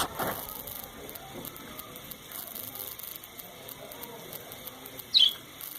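Caged pet bird giving a single sharp, high chirp about five seconds in, over a faint steady hiss.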